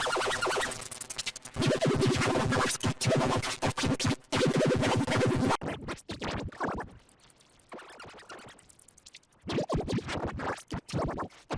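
Glitch-edited, heavily processed audio: rapidly stuttered and chopped sound like record scratching. It is dense for about five and a half seconds, goes thinner and quieter, then turns dense again near the end.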